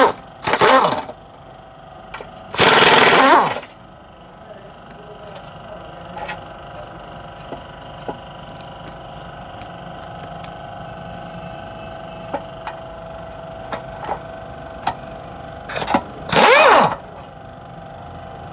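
Pneumatic impact wrench firing in short loud bursts on the car's underside bolts: a brief burst just after the start, a longer one about three seconds in, and another near the end that winds down in pitch. Light metallic clicks of tools come between them over a steady faint hum.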